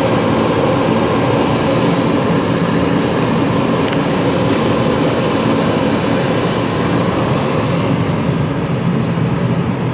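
Steady rush of the 2006 Lincoln Town Car's climate-control blower pushing air through the cabin vents, over a constant low hum.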